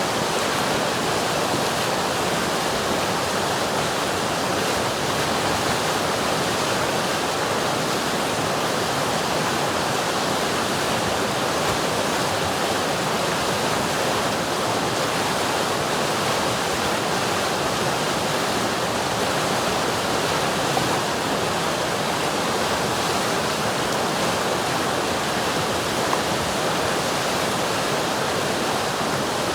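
River water rushing and splashing over rocks, a steady, even flow that never lets up.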